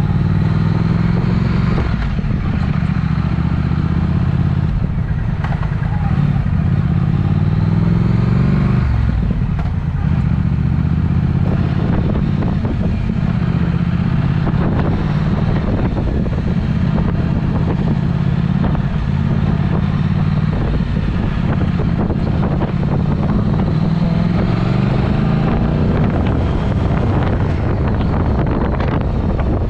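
Triumph Speed Twin's parallel-twin engine through a Vance & Hines exhaust, heard on the move. The note climbs under acceleration, drops sharply about nine seconds in as a gear is changed, and climbs again near the end.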